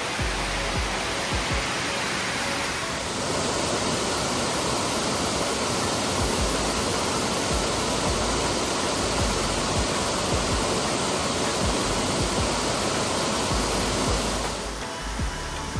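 A steady rushing noise, louder from about three seconds in until near the end, with background music under it.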